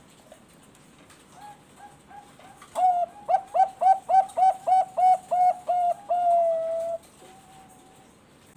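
Zebra dove (perkutut, Bangkok song strain) singing. A few soft opening notes lead into a fast run of about a dozen short coos, about four a second, which ends in one long drawn-out note.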